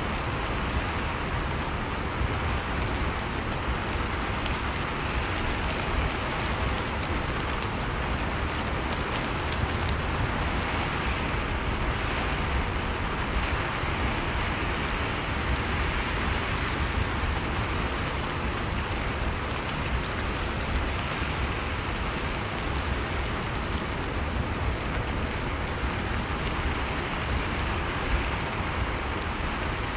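Steady rain falling, a continuous even hiss with scattered drops ticking on a surface.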